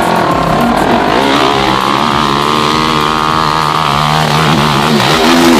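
Dirt bike engine revving hard on a steep hill climb, held at high revs and then dipping and rising in pitch near the end as the throttle is worked.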